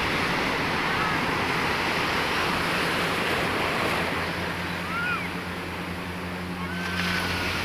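Steady rush of sea surf and wind on the microphone, with a faint low motorboat engine hum underneath that grows a little stronger after about five seconds.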